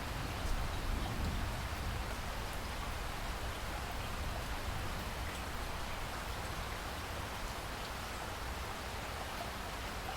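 Steady rain falling, an even hiss with a low rumble underneath and scattered light drop ticks.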